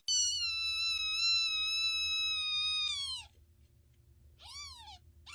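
A cat meowing: one long, drawn-out meow held at a steady pitch for about three seconds that drops at the end, then a short meow about a second and a half later.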